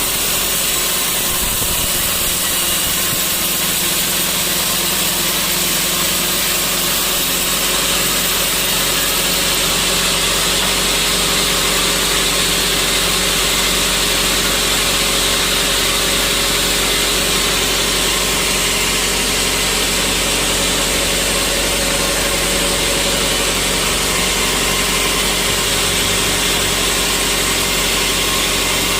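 Sawmill machinery running steadily: a constant, unchanging mechanical drone with a broad hiss over it.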